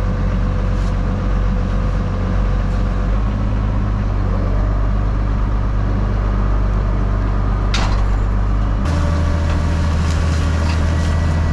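Semi truck's diesel engine running steadily, heard from inside the cab. A brief sharp sound comes near eight seconds in, and the engine note shifts just before nine seconds.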